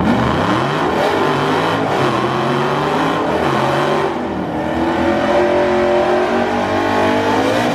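Dodge Scat Pack's 392 HEMI V8 at full throttle down the drag strip, its pitch climbing in stages as it pulls through the gears.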